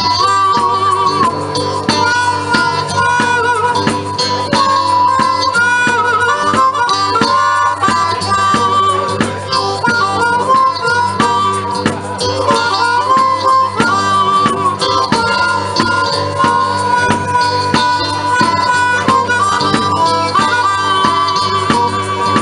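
Blues harmonica solo with held, bending notes over a band playing a steady beat, with guitar and drums.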